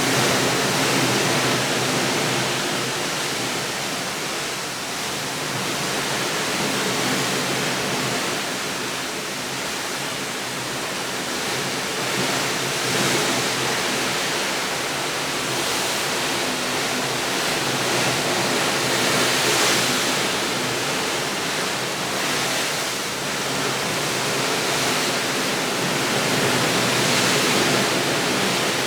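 A steady, even rushing noise with no distinct events, swelling and easing gently every few seconds.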